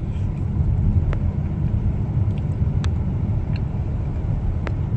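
Steady low rumble of road and engine noise inside a moving car's cabin, with a few faint clicks scattered through it.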